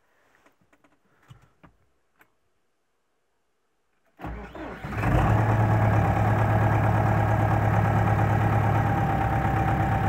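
D-243 four-cylinder diesel engine with a freshly repaired fuel injection pump cranking about four seconds in. It catches within about a second and settles into steady running.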